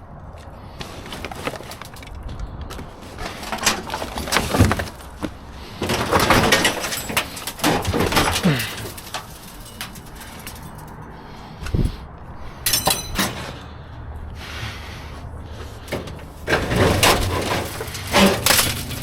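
Scrap and junk being rummaged through and shifted inside a dumpster: irregular clattering, knocking and scraping of objects, busiest in the middle and again near the end with a quieter spell in between.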